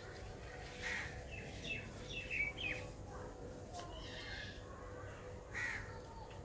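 Birds calling outdoors: a quick run of short, falling calls about a second in, then a few scattered calls later.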